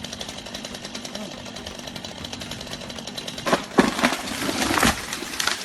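Chainsaw running with a fast, steady buzz, then a cluster of loud cracks and crashes about three and a half to five seconds in.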